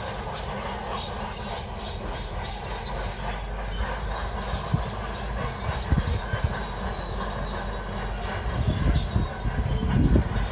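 Shantui D17 crawler bulldozer working: a diesel engine running under steady noise with its steel tracks squealing and clanking. A sharp knock comes about six seconds in, and a run of heavier low thuds near the end.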